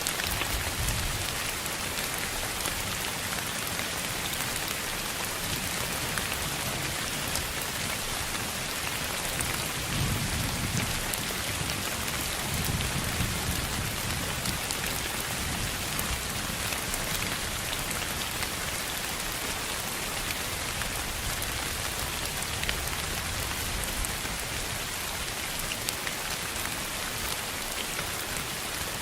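Steady rain falling on a surface, an even hiss with scattered drop ticks, with low rumbles swelling about ten and thirteen seconds in.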